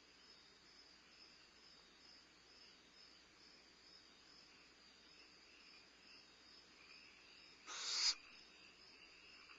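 A barn owl gives one short, harsh, hissing screech near the end, over a steady chirring of crickets.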